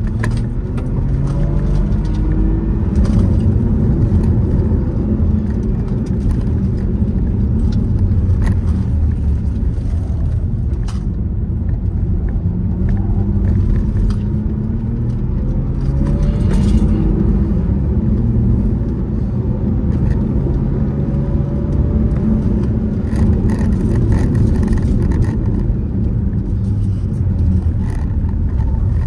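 Car engine heard on board, its pitch climbing again and again under acceleration and dropping back at each gear change, over a steady road and wind rumble.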